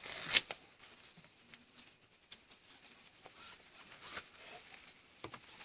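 Faint outdoor sounds: scattered short clicks and rustles, loudest right at the start, with a few brief high chirps, likely small birds, about three and a half seconds in.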